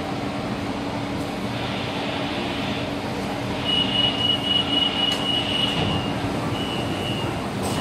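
BTS Skytrain car standing at a station platform, heard from inside the car: a steady hum and rumble from the train. A steady high tone comes in about halfway through, breaks off briefly, then sounds again near the end.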